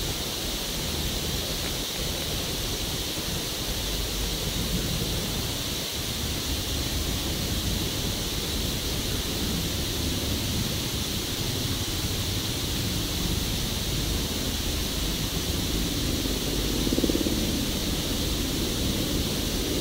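Steady rushing wind noise on the microphone with a low rumble underneath, swelling briefly about seventeen seconds in.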